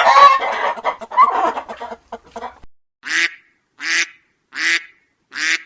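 Geese honking: a noisy cluster of overlapping calls, then four single honks at an even pace, a little under a second apart.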